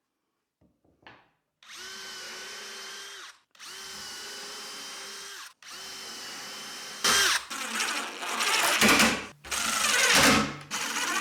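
Cordless drill run in three short, steady bursts at one pitch, pre-drilling screw holes in a wood cabinet face frame. It is followed by louder, rougher, uneven runs near the end.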